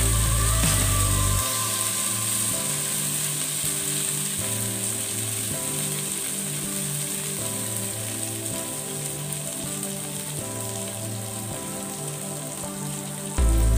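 Sliced onions and tomatoes sizzling steadily as they fry in a pan, with background music playing over it; the music's bass comes in heavily near the end.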